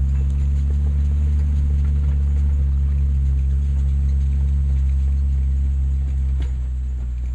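1946 Dodge WFA-32 truck's 236.6 cubic-inch flathead six running steadily, a low even drone that eases slightly near the end.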